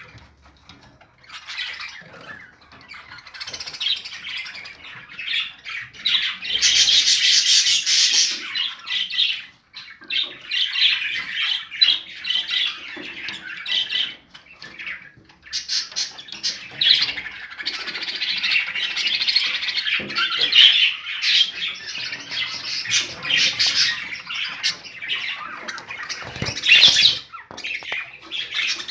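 Birds chirping and squawking, many calls overlapping with only brief lulls.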